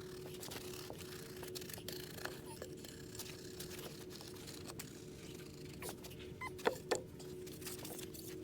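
Steel trowel working wet concrete: scattered light scrapes and taps, with two sharper clicks close together about seven seconds in, over a faint steady hum.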